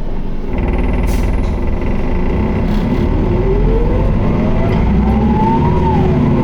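Isuzu Erga (QDG-LV290N1) city bus diesel pulling hard under acceleration, heard from inside the bus, with a drivetrain whine rising steadily in pitch for a few seconds and then falling away sharply near the end. The bus is held in fourth gear in POWER mode and is known for an abnormal noise and heavy vibration.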